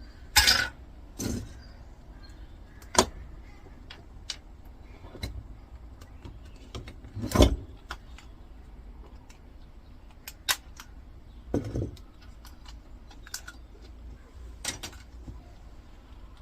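Irregular clicks, knocks and short scrapes of small metal and plastic parts being handled and worked loose while dismantling an old electricity meter, the loudest knock about seven seconds in.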